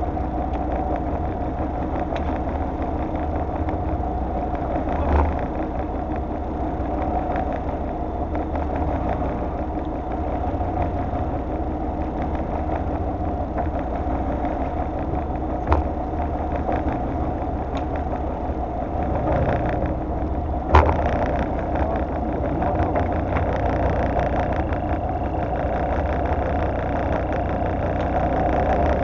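Fishing boat's engine running steadily, with three short knocks spread through it.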